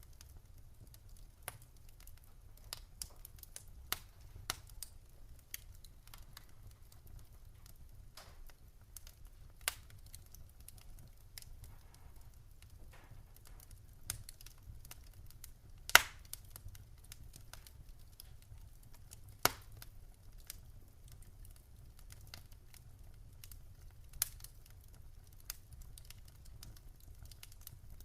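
Wood fire in a fireplace crackling: irregular pops and snaps over a low steady rumble, with one loud, sharp pop about halfway through.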